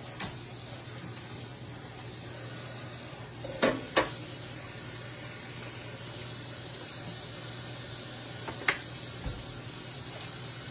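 Chicken and apple sausage pieces sizzling steadily in a hot frying pan, with a few sharp knocks about four seconds in and again near the end.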